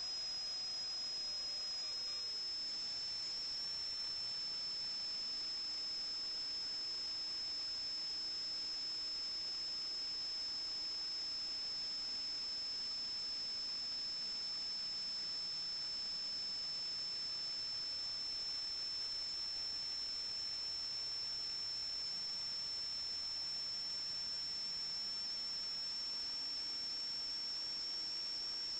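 A steady high-pitched electronic whine over a constant hiss, holding one pitch throughout.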